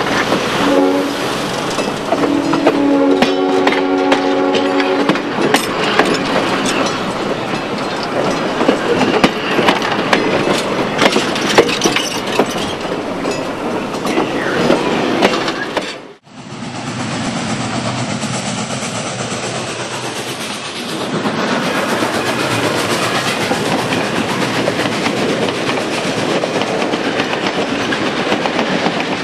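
Passenger cars rolling past close by, their wheels clicking steadily over the rail joints. The steam locomotive's multi-note chime whistle blows twice early on: one blast ending about a second in and a second from about two and a half to five seconds in. After a sudden cut about sixteen seconds in, the train keeps running past.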